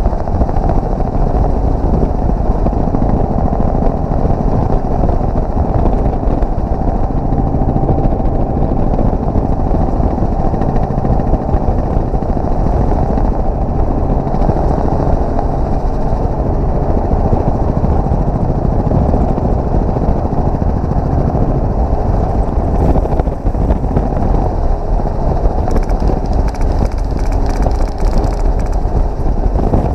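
Helicopter running, a loud steady engine and rotor noise that does not let up.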